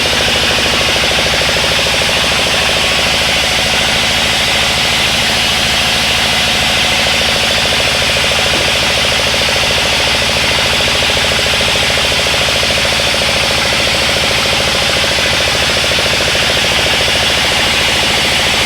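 Sawmill engine running steadily and loud, with a fast even pulse and no change in speed.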